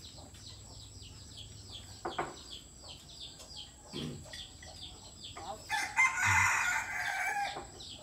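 Faint high bird chirps repeat a few times a second. About six seconds in, a loud, harsh bird call lasts nearly two seconds.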